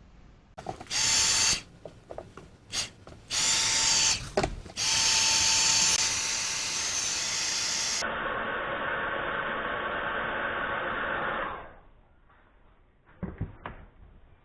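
Electric heat gun blowing with a faint steady whine, switched on in two short bursts and then run steadily for about six seconds to shrink heat-shrink tubing over a reel handle grip. A few light handling clicks follow near the end.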